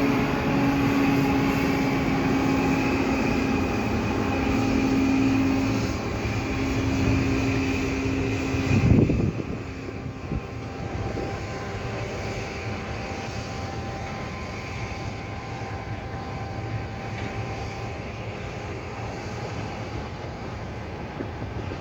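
A train running, with a steady hum over its noise for about nine seconds; then a brief loud thump and the sound drops abruptly to a quieter steady rumble.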